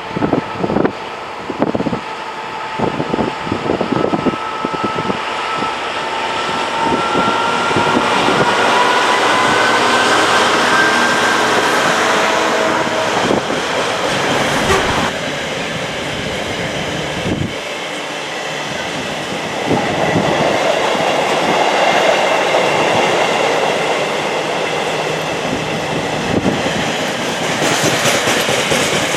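A train passing by the tracks, with a whine that rises in pitch over the first ten seconds or so, then a steady rumble of wheels on the rails. Wind gusts buffet the microphone near the start.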